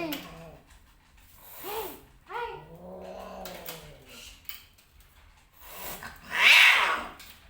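Domestic cats yowling and growling during mating: a few short calls, then a long low drawn-out yowl. A loud, higher-pitched screech comes about six seconds in.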